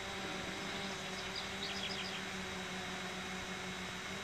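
A bird chirps a quick run of short, high notes about a second and a half in, over a steady background hiss with a low, even hum.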